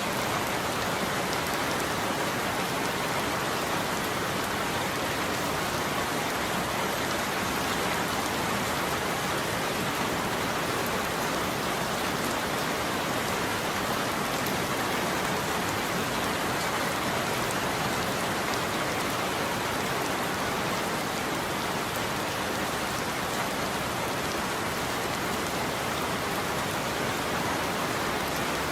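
Steady rain falling, an even hiss of many drops hitting a surface, with no thunder or changes in level.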